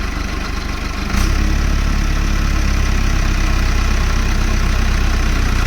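Tractor diesel engine running steadily. About a second in, the throttle is opened and it settles into a louder, deeper steady run, throttle given so the engine does not stall.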